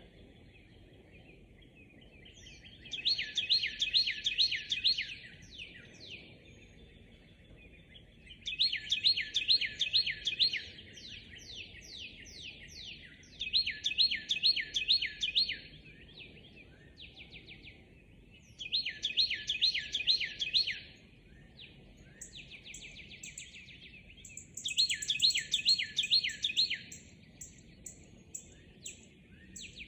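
Songbirds singing in a dawn chorus: one bird repeats a quick song of rapid down-slurred notes about every five seconds, and a second, higher and thinner song joins in over the second half, above a faint low background rumble.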